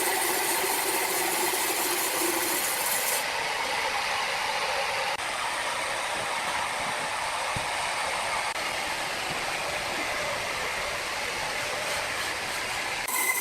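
Sawmill saw cutting through a log: a steady, even rushing noise, with a low hum that drops out about two and a half seconds in.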